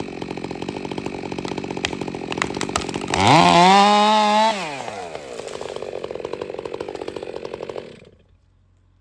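Two-stroke chainsaw idling with a few sharp clicks. About three seconds in it is revved to full throttle for about a second and a half, drops back to idle, and then shuts off near the end.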